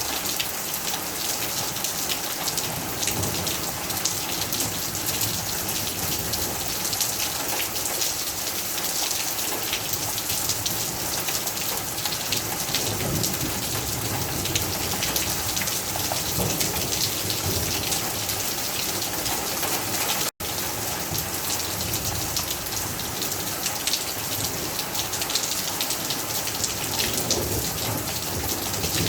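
Heavy rain falling steadily, dense drops pattering on hard surfaces, with a momentary break about two-thirds of the way through.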